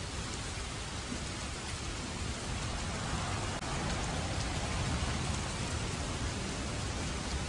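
Steady heavy rainfall, an even hiss of falling rain that grows a little louder about three seconds in.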